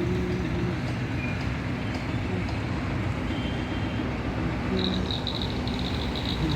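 Steady rumble of passing vehicles, with a high, broken tone near the end.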